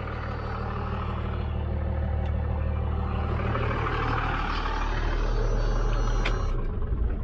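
12-valve Cummins diesel in a Dodge Ram 2500 running, growing gradually louder through the middle, then cutting off abruptly near the end.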